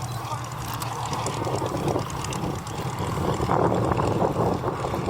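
Propeller aircraft engine running steadily at an airshow, with wind buffeting the microphone.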